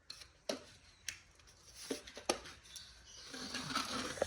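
A handful of light, sharp clicks and taps of hard plastic being handled, from the base of an LED animatronic plant prop where its battery compartment and mode switch sit.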